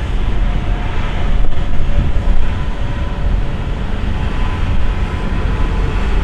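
Steady low rumble of a moving vehicle: road and wind noise with a faint hum running through it.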